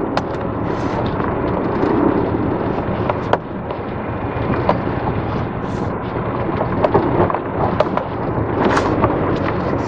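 Vehicle driving over a rough, rain-damaged road: steady rumble and road noise with frequent irregular knocks and rattles from the bumps.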